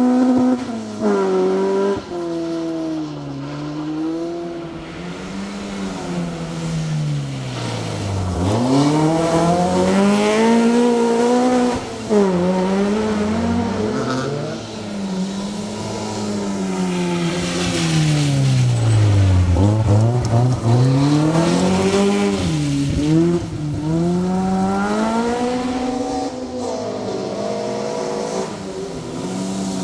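Toyota Beams 2.0-litre four-cylinder engine of a Mk2 Ford Escort rally car, driven hard on a stage: the revs climb and fall over and over, twice sinking right down before pulling up again.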